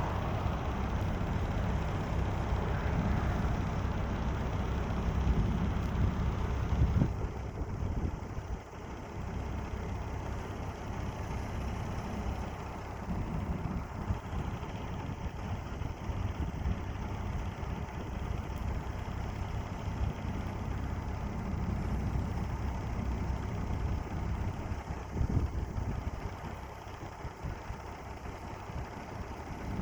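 A steady low rumble with a noisy hiss above it. It is loudest for the first seven seconds or so, then drops a little and carries on.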